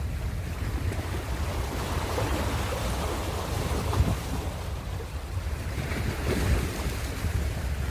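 Ocean waves washing in steadily, a deep continuous rumble of surf that swells and eases, with wind buffeting the microphone.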